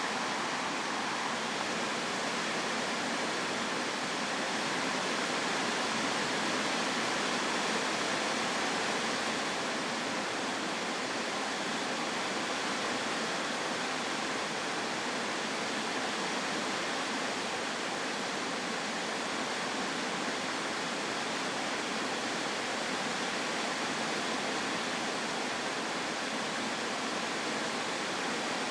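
Heavy rain from a summer storm, pouring steadily as a dense, even rush of noise.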